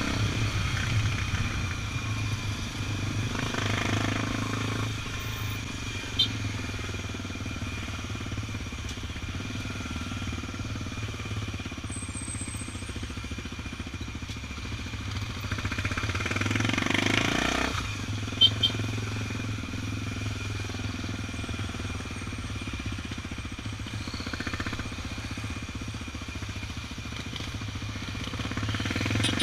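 Honda XR 250 Tornado's single-cylinder engine running steadily while riding, with a constant hum of road and traffic noise. Two louder swells come a few seconds in and just past halfway, and there are a few short sharp clicks.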